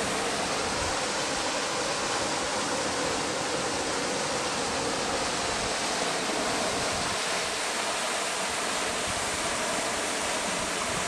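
Rushing river water, a steady, unbroken roar of falling or tumbling water.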